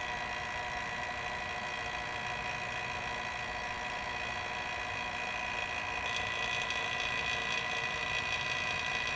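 Electric refrigerant vacuum pump running steadily with a steady whine, pulling a vacuum on a newly installed air conditioner's refrigerant lines before they are charged.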